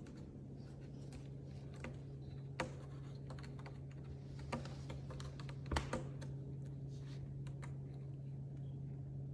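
Faint scattered clicks and taps, a handful of them, over a steady low hum.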